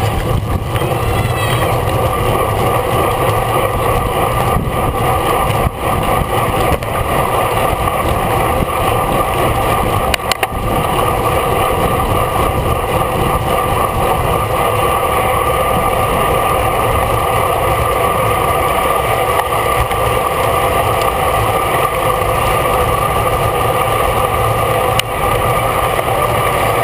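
Steady rush of wind and road noise on a racing cyclist's camera while riding at speed in a road race.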